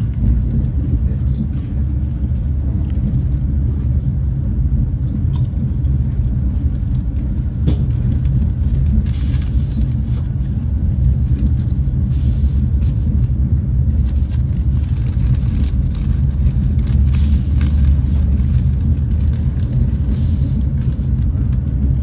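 Steady low rumble of a Renfe class 130 (Talgo 250) high-speed train running at speed, heard from inside the passenger car, with a few brief higher hissing swells over it.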